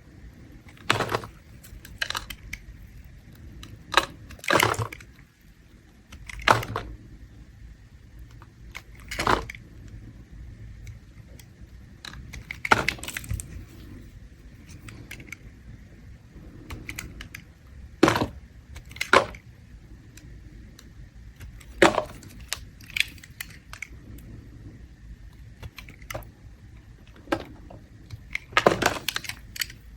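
A blade scraping a bar of mint soap in short, crisp strokes that crackle as the shavings come away, at irregular gaps of one to several seconds.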